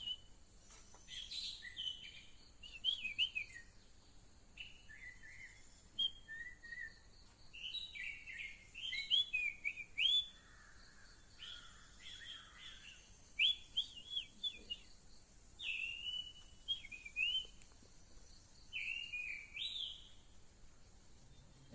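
A songbird chirping in short phrases of quick, sharply gliding notes, a fresh phrase every second or two.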